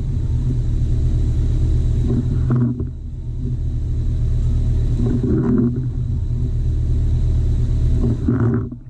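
A four-wheel-drive's engine running with a steady low rumble. It eases off briefly about three seconds in and again near the end.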